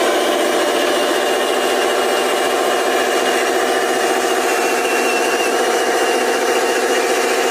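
A steady mechanical running sound like an engine, unchanging throughout.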